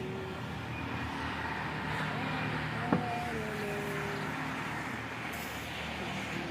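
Steady low background rumble, with a single sharp click about three seconds in.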